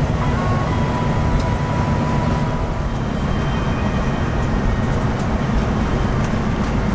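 Steady rumble of a Scania K360i coach on the move, heard from inside the passenger cabin: engine and road noise, heaviest in the low end and unbroken.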